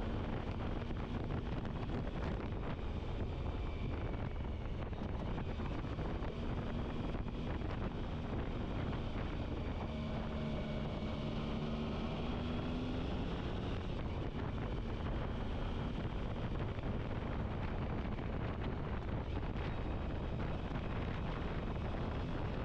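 Wind rushing over the microphone on a moving motorcycle, with the engine's drone underneath; the engine note climbs briefly about twelve seconds in.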